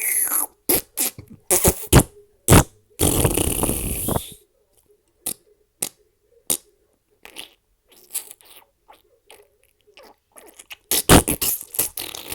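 Fart sound effects: a run of short, sharp farts, then one longer drawn-out fart lasting about a second and a half, then a cluster of quick loud farts near the end.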